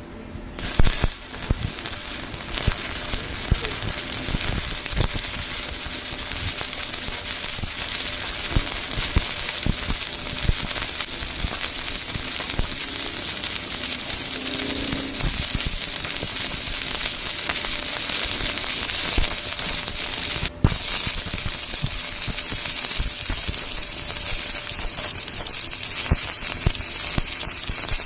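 Electric arc welding: the arc crackling and sizzling steadily, full of small pops, breaking off for a split second about two-thirds of the way through and then carrying on.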